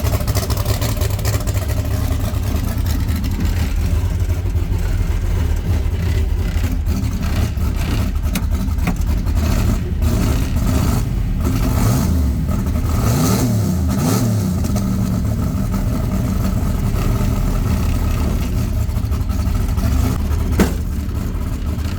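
Camaro's carbureted engine running with a loud, steady low rumble as the car is moved, blipped up and back down briefly about halfway through. A single sharp click near the end.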